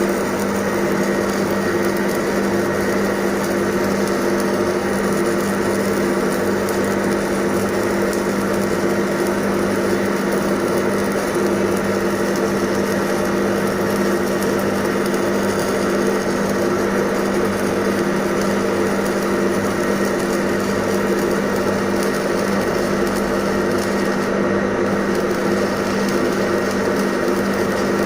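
Electric arc welding: a steady crackling, buzzing arc running without a break, as on a continuous circular weld bead.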